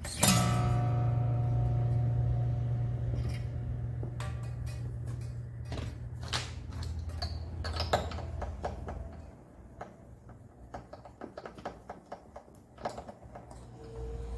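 A Taylor 214CE acoustic guitar is strummed once just after the start, and the chord rings out and slowly fades over several seconds. A scatter of light clicks and taps on the guitar follows, and it grows quieter near the end.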